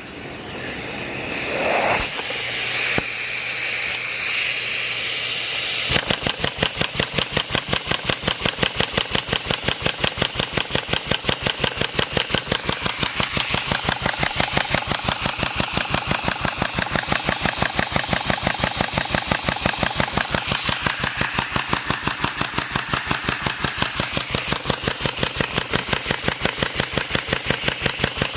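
A Lego four-stroke overhead-valve engine model starting up: a rising hiss for the first few seconds, then, about six seconds in, it settles into a fast, even beat of about five strokes a second. The builder says it is not running at its best tune and suspects something wrong with the valve stems.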